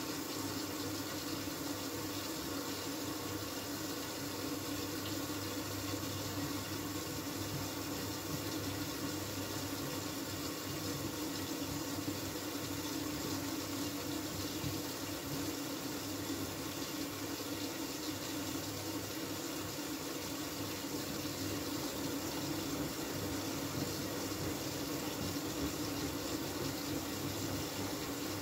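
Miele W433 washing machine taking in water for a high-water-level rinse: a steady rush of water flowing into the drum, with a low hum underneath.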